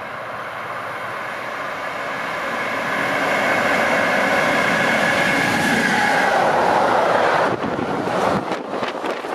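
Freight train hauled by an electric locomotive approaching and passing, growing steadily louder with a high steady whine. Near the end the locomotive goes by and the sound changes abruptly to the irregular clatter of loaded car-transport wagons rolling past.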